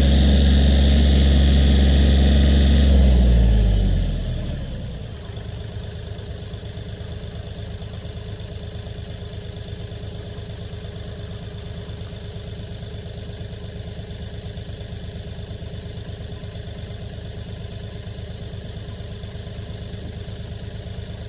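Kioti 4010 tractor's diesel engine running at high throttle, then throttling down about four seconds in, its pitch falling, and settling into a steady idle.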